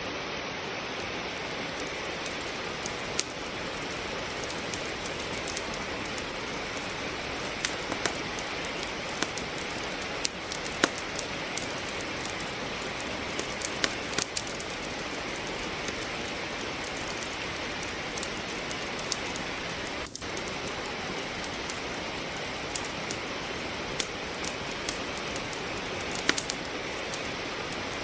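Steady rain falling, with a wood fire crackling in a fireplace: sharp pops scattered irregularly over the hiss of the rain.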